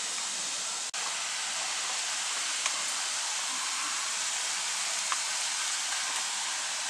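Steady hiss of rain falling during a thunderstorm, with a couple of faint ticks; the sound drops out for an instant about a second in.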